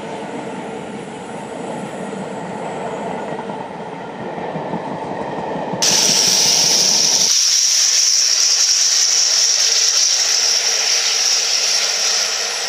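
Passenger coaches of a steam-hauled train running past on the track. About six seconds in the sound switches abruptly to a louder, steady hiss.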